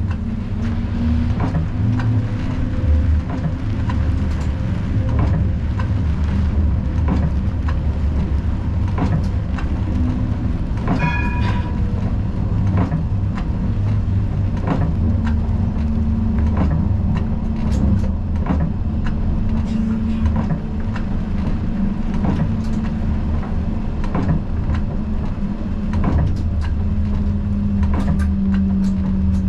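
Siemens Combino tram running along its tracks, with a steady motor hum and repeated wheel-on-rail clicks and knocks. A short pitched tone sounds about eleven seconds in.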